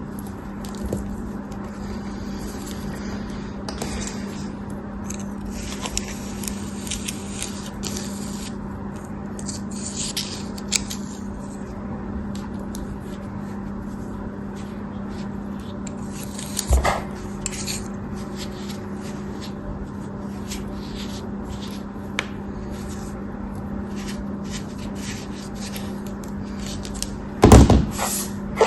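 Crisp, crumbly crackling as a block of kinetic sand or soap is cut and broken up, coming in scattered patches over a steady low hum. A loud knock comes near the end.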